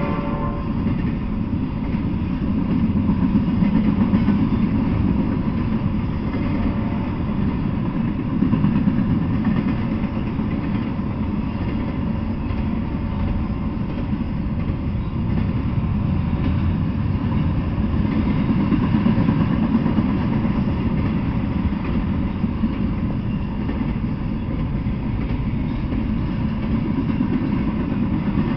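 Double-stack intermodal freight train passing at speed: a steady, loud rumble of the container cars' wheels on the rails, swelling and easing a little as the cars go by.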